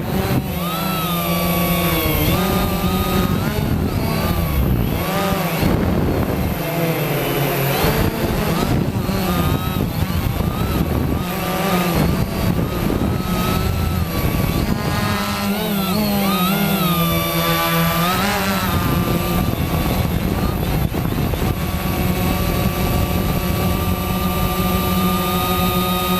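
Quanum Nova quadcopter's electric motors and propellers whining, the pitch rising and falling over and over as the throttle changes in flight.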